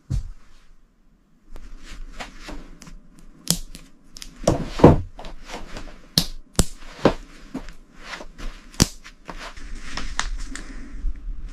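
Irregular knocks and taps of hand construction work, with a few sharper, louder strikes in the middle and a hissing noise coming in near the end.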